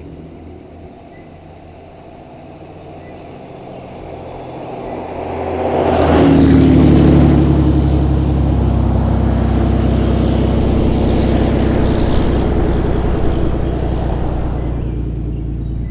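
6.7L Cummins inline-six turbodiesel in a RAM 2500, heard through a 5-inch JAMO stainless turbo-back exhaust with muffler, running quietly and then growing much louder over a couple of seconds, with a brief hiss as it peaks. It then runs steadily loud before easing off a little near the end.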